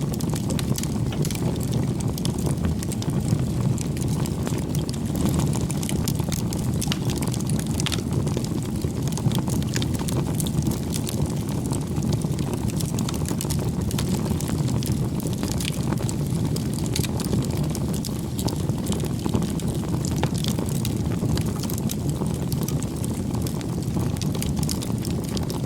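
Bonfire burning: a steady low rush of flames with frequent sharp crackles and pops of burning wood.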